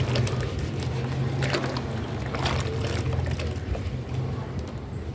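Wet cement being crushed and worked into a paste: soft wet squishing with scattered small crackles and a couple of brief swishes, over a steady low hum.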